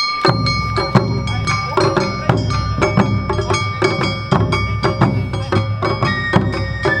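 Awa Odori festival music starting up: taiko drums and a ringing metal kane gong keep a brisk, steady beat, and a shinobue bamboo flute comes in with a high held note about six seconds in, then steps down.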